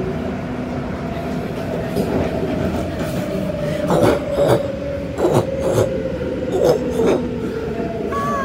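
Adtranz-CAF A-Train electric multiple unit creeping to a halt at the platform: a steady whine falls slowly in pitch, and from about halfway in come three pairs of short clunks.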